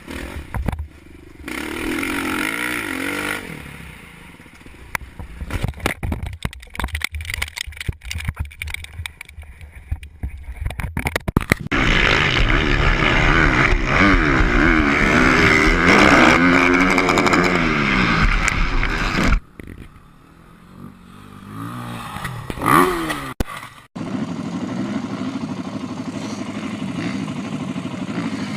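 Dirt bike engine revving up and down, with a stretch of rattling clatter in the first part. It is loudest in a sustained rev through the middle, cuts off suddenly twice, and then runs on at a steadier pitch near the end.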